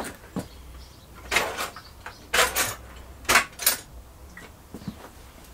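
Rummaging through tools for a spark plug spanner: a few short clattering and scraping bursts of metal tools being moved, one over a second in and more at two to four seconds.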